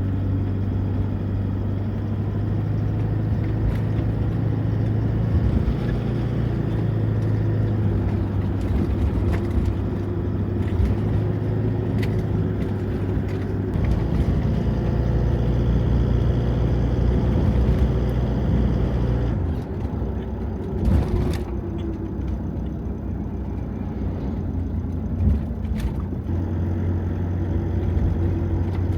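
Steady engine and road noise heard from inside a moving Honda N-VAN, with a low hum that changes briefly partway through.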